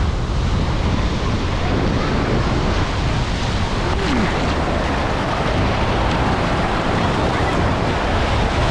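Steady wind buffeting the microphone over the wash of waves at the water's edge.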